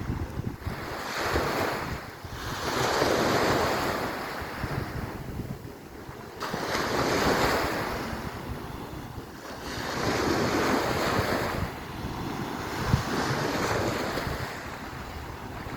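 Waves washing onto the shore, each swell rising and fading every three to four seconds, with wind rumbling on the microphone and one short bump about thirteen seconds in.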